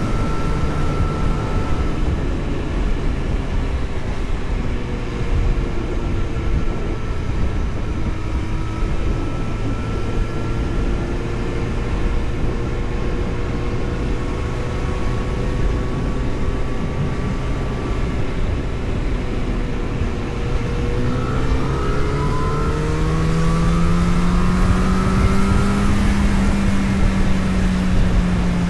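A vehicle driving, its engine running under a steady bed of road and wind noise. About 21 seconds in, the engine's pitch climbs as it accelerates, then holds higher and a little louder near the end.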